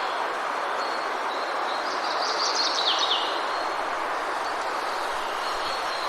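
Steady hiss of rain falling in a forest, with a bird giving a quick run of falling chirps about two seconds in.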